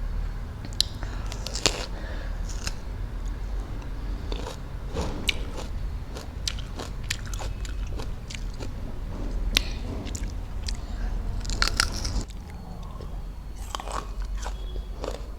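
Biting and chewing of raw fruit, an irregular string of crunches and clicks.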